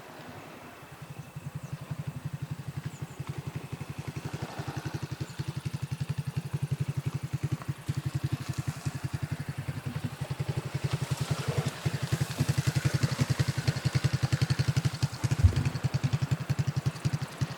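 An engine running at a steady, rapid beat of about ten pulses a second, setting in about a second in and growing louder, with one low thump near the end.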